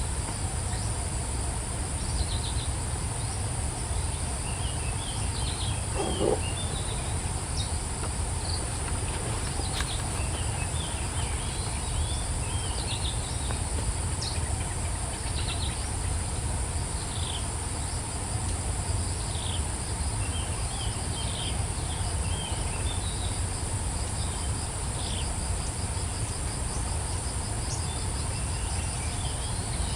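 Insects droning steadily in a high, continuous whine, with small birds giving short high chirps in scattered clusters and a low steady rumble underneath.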